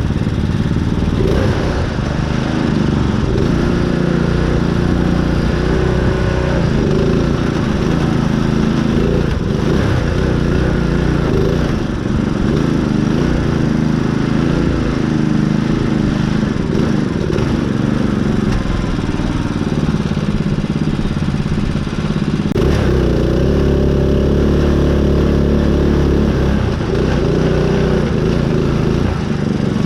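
Small engine of a custom riding mud mower running hard, its pitch rising and falling with the throttle. About 22 seconds in the engine note changes and grows a little stronger and deeper.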